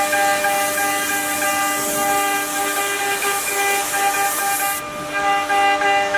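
CNC router spindle running with a steady high whine, overlaid by a high hiss that cuts off about five seconds in.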